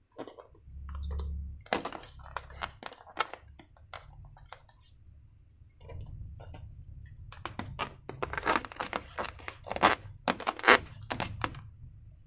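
Slime being handled and squished by hand: a run of sticky crackles and clicks over dull handling thumps, denser and louder in the second half.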